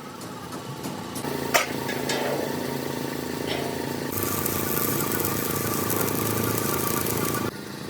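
An engine running steadily, with a single sharp knock about a second and a half in. A loud hissing noise joins about four seconds in, and the whole sound cuts off abruptly near the end.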